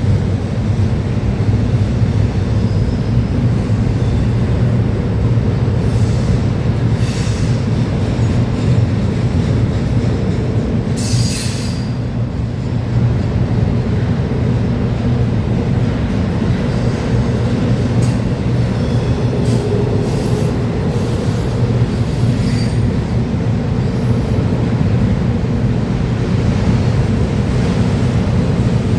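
Freight train rolling past, its cars giving a steady heavy rumble, with brief high wheel squeals about seven and eleven seconds in.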